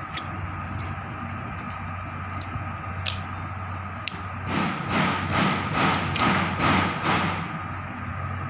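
Steady electrical hum with a thin whine. About halfway in, a run of six rough scraping strokes, about two a second.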